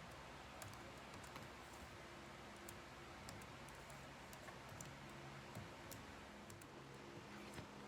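Faint, irregular clicks of typing on a computer keyboard over a steady low electrical hum.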